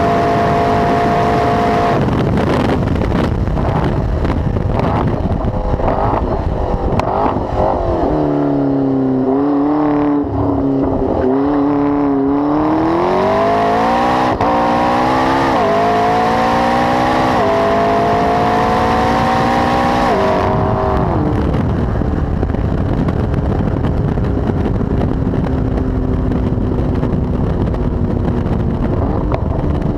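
McLaren 12C's twin-turbo V8, fitted with a Milltek exhaust, driven hard on track. The engine note falls from about 8 s in as the car slows, then climbs in several rising steps with brief dips at the gear changes. It settles into a steadier, lower note for the last third.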